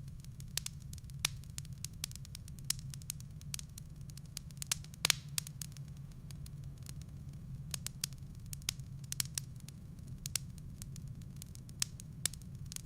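Wood fire crackling in a fireplace: irregular sharp pops and snaps from the burning logs over a steady low rumble, with one louder pop about five seconds in.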